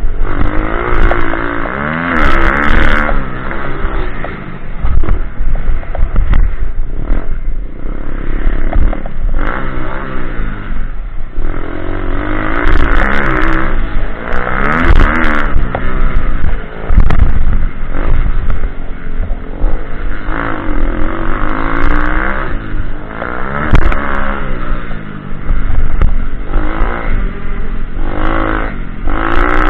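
Small single-cylinder pitbike engine revving hard, its pitch climbing and dropping again and again as the throttle is opened and shut through the turns and jumps of an off-road track, with bursts of scraping and clatter.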